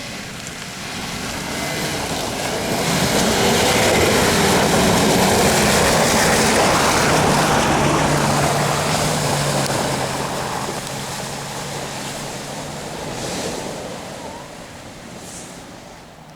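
Off-road 4x4 vehicle driving through mud and water, its engine running under load. A broad splashing rush swells to a peak a few seconds in, then fades.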